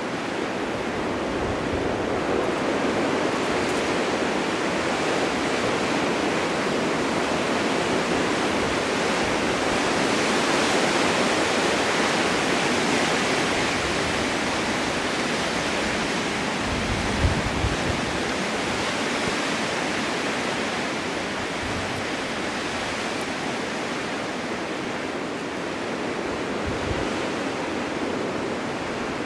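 Strong winter wind blowing steadily, swelling a little and easing again, with a few brief low rumbles of gusts just past the middle.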